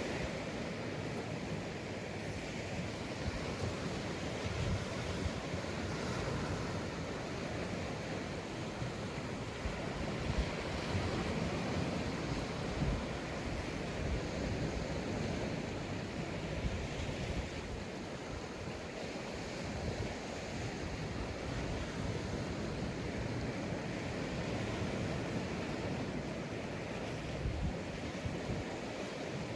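Sea waves breaking and washing up a sandy beach in a steady, even rush that swells and eases every few seconds, with some wind buffeting the microphone.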